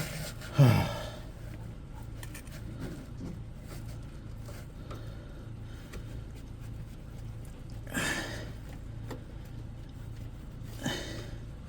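Rubber vacuum pipe being tugged and worked off its fitting by hand, with two brief scraping rasps about eight and eleven seconds in. A short strained grunt comes just under a second in, over a steady low hum.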